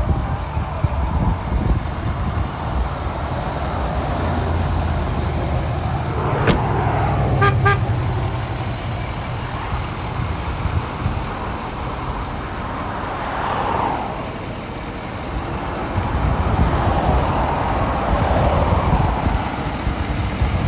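Steady low vehicle rumble with a click about six and a half seconds in, followed by a few short horn toots a second later. Further in, vehicle noise swells and fades twice.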